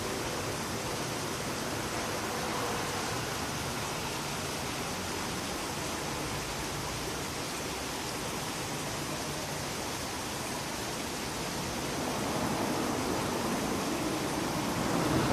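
Steady rushing outdoor background noise with no distinct events, growing somewhat louder over the last few seconds.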